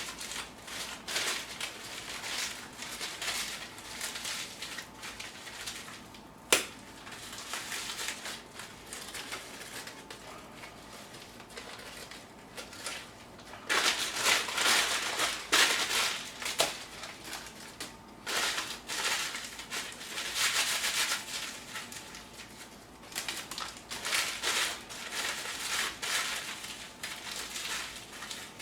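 Newspaper being crumpled and handled, in irregular crinkling bursts that grow busier about halfway through, with one sharp click about six and a half seconds in.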